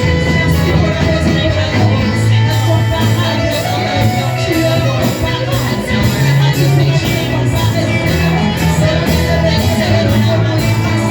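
Live church worship band playing, with a bass line, guitar and a steady drumbeat, and voices singing.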